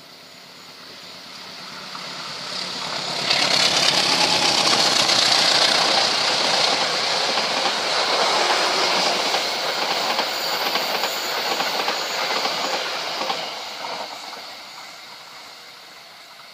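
Diesel-hauled passenger train passing close by. The noise builds as it approaches, the carriages' wheels run loudly over the rails for about ten seconds, and the sound fades as the train moves away.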